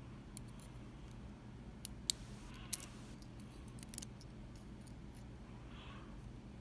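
A handful of small, sharp metallic clicks and taps, the loudest a little under three seconds in, from handling the pins and parts of a Mul-T-Lock MT5 pin-tumbler lock as its top pins are taken out, over a faint low hum.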